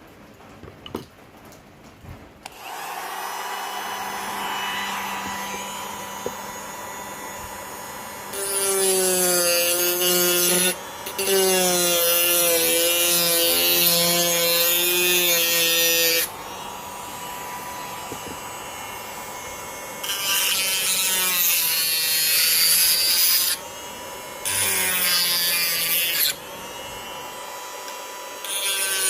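Homemade drilling and cutting machine driven by a 775 DC motor: a few clicks, then the motor starts and runs with a steady hum. In several stretches of a few seconds it bites into material, louder and rougher, with its pitch dropping under load.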